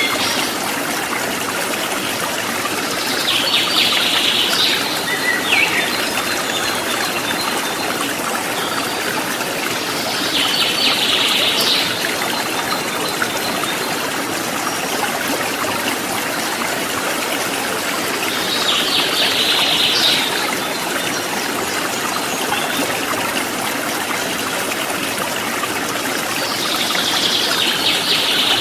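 Water trickling and babbling in a stream, a steady, even rush throughout. A short, high-pitched chirring call comes in four times, about every eight seconds.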